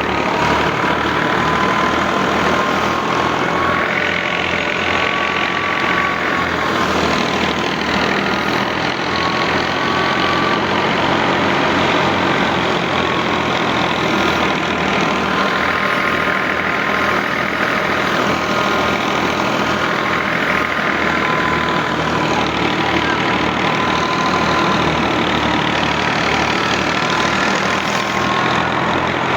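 Al-Ghazi tractor's diesel engine running steadily with an even low pulse, driving a thresher. A wavering whine sits above the engine, and a rushing noise swells and fades every few seconds.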